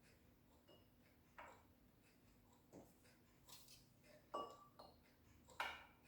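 Several faint, sharp metallic clicks and taps, with two louder ones in the second half. They come from handling a caliper and engine parts while the crankshaft of a BMW R60/5 boxer engine is pushed from front to rear to measure its end play.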